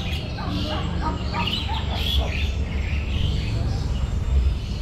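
Caged birds calling, several at once: quick chirps and short rising and falling whistles, over a steady low rumble.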